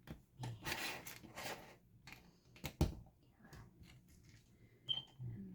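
Plastic building-block pieces handled and snapped together: a rustling for about a second, then a sharp click about halfway through, with a few lighter clicks after.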